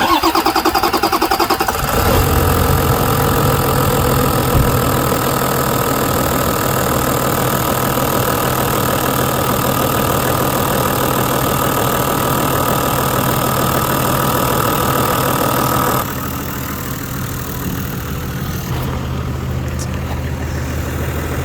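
Toyota 1HD-FTE 4.2-litre turbo-diesel being cold-started: the starter cranks for about two seconds, the engine catches, then it idles steadily. It gets quieter about sixteen seconds in.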